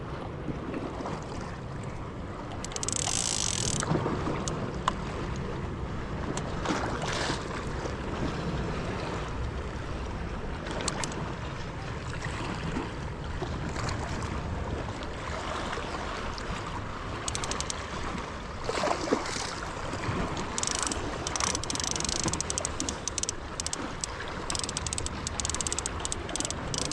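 Sea surf washing against rocks with wind buffeting the microphone: a steady rushing noise with a low rumble, a few brief hissing washes and scattered small clicks and knocks.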